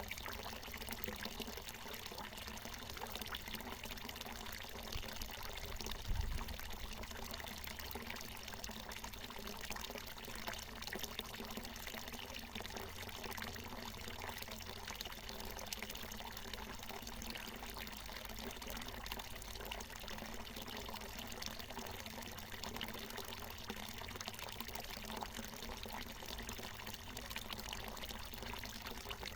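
Water from a natural mountain spring falling and splashing in a steady, even pour, with a brief low thump about six seconds in.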